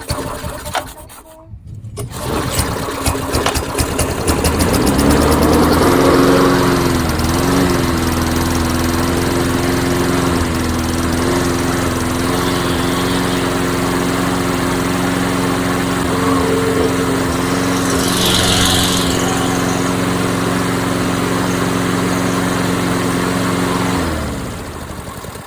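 Tecumseh lawn mower engine restarted while still warm: it catches within the first few seconds, speeds up, and runs steadily for about twenty seconds. Near the end it is shut off and winds down.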